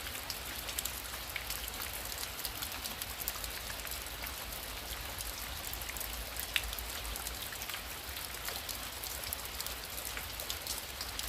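Heavy rain falling steadily. Many sharp drop ticks sit over an even hiss, with a low rumble underneath.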